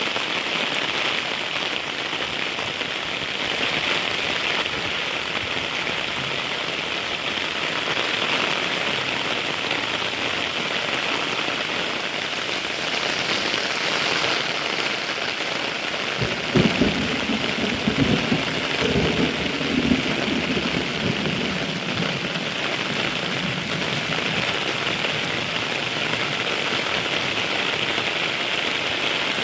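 Heavy rain falling steadily, with a short low rumble of thunder a little over halfway through.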